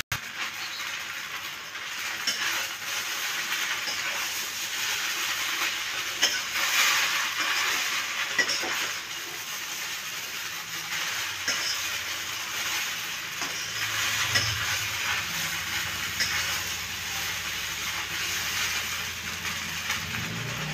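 Rice vermicelli frying in a nonstick wok: a steady sizzle, with a metal spatula scraping and clicking against the pan as the noodles are stirred and tossed.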